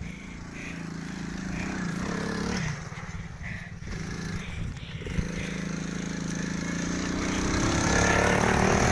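Motorbike engine running, growing steadily louder and rising in pitch towards the end as it revs up.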